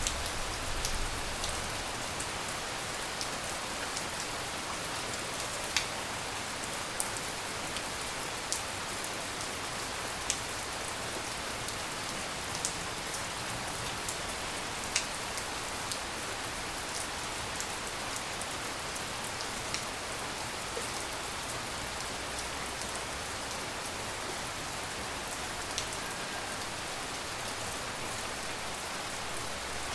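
Steady tropical rain falling, an even hiss with scattered louder single drops ticking close by.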